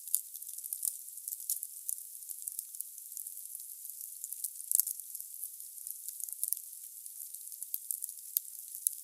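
Wood burning in a fireplace: irregular crackles and sharp pops over a steady hiss, with a few louder snaps. The sound is thin and crisp, with no low roar of flames.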